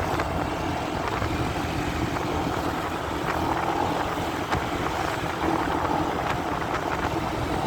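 Steady wind rush and muffled motorcycle engine while riding, heard through a phone carried in a pocket.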